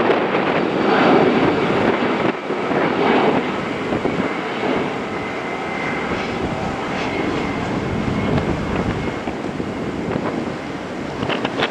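Jet airliner on final approach to land, its engines giving a steady broad rush with a faint high whine over the middle stretch.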